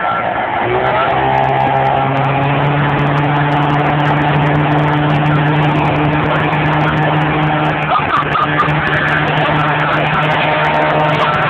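A 20 hp outboard motor pushing a small rowboat at speed, its pitch stepping up about a second in and then holding steady over a constant hiss.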